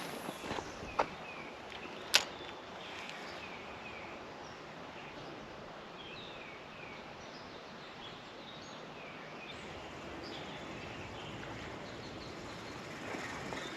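Small birds chirping over and over in short downward-sliding notes above a steady outdoor hiss, with one sharp click about two seconds in.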